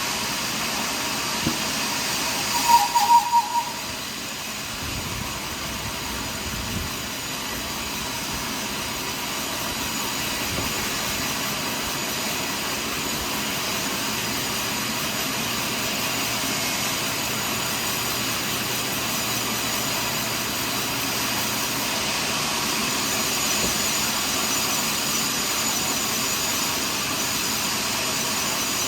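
Sawmill machinery running steadily as a log is sawn: a constant machine drone with hiss. About three seconds in, a brief loud pulsing tone cuts through.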